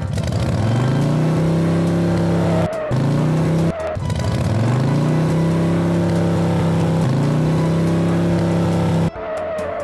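Car engine sound effect revving up and holding high speed, starting over about four times, with short tire squeals in between, as for a speeding car in a chase.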